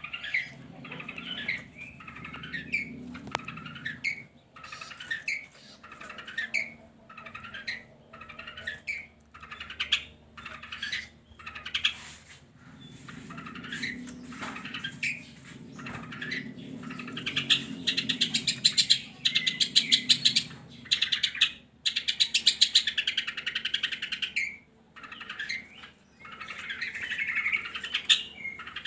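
Long-tailed shrike (cendet) singing: sharp, short call notes about once a second, breaking into a fast, harsh chattering run a little past halfway, and again near the end.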